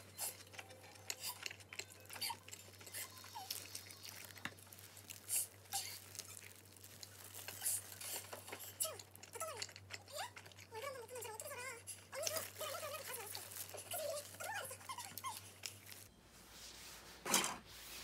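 Close-up eating sounds: chewing and crunching of a pizza slice, with irregular small clicks and the crinkle of disposable plastic food gloves. Near the end comes one brief loud rush of noise.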